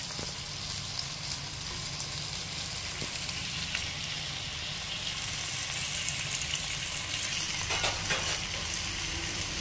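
Oil sizzling steadily in a clay pot as stuffed whole brinjals fry with onions and tomatoes, with a few faint knocks as the brinjals are set in place by hand. A low steady hum runs underneath.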